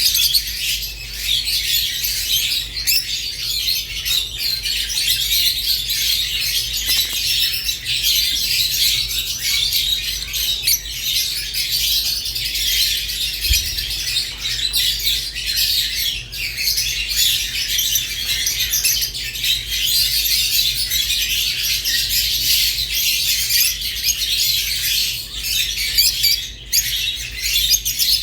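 Rosy-faced and Fischer's lovebirds chirping without pause, a dense stream of high, overlapping chirps and twitters.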